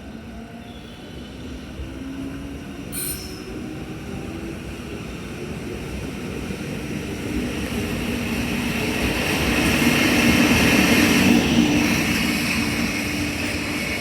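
EF65 electric locomotive hauling a freight train, approaching and passing: a rumble of wheels and motors with a steady hum that grows louder to a peak about ten seconds in, then eases slightly. A single sharp click about three seconds in.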